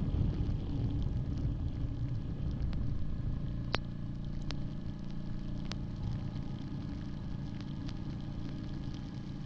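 Yamaha Grizzly 700 ATV's single-cylinder engine running steadily with a low rumble, with a few sharp clicks scattered through the middle.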